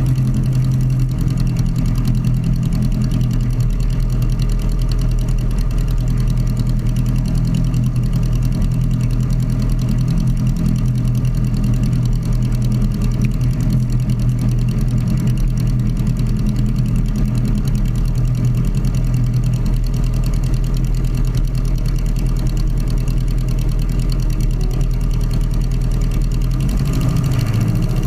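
Sonerai's Volkswagen-based air-cooled flat-four aircraft engine running steadily during its break-in run. Its pitch shifts slightly near the end.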